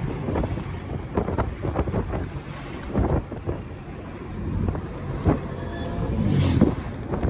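Truck on the move, its low rumble broken by frequent irregular knocks and rattles, with wind buffeting the microphone. A louder gusty swell comes about six and a half seconds in.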